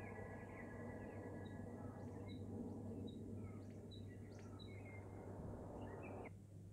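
Faint birdsong, short scattered chirps and whistles, over a soft bed of outdoor ambient noise and a low steady hum; the bird sounds and noise cut off suddenly near the end.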